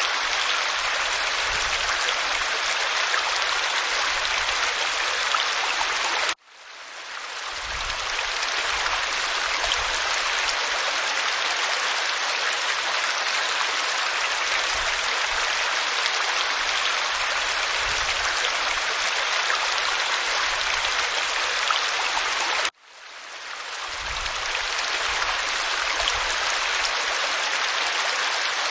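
Waterfall pouring over rock: a steady, full rush of falling water. It cuts out abruptly twice and swells back in over a second or two each time.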